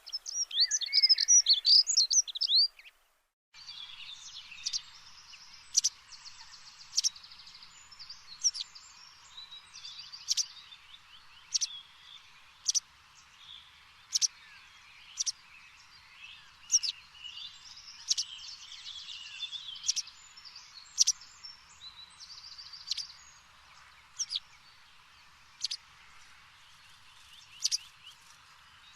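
Birds chirping and singing: a loud burst of rapid warbling for about the first three seconds, then a sudden brief dropout, then faint chirping with a sharper chirp roughly every second over a steady hiss.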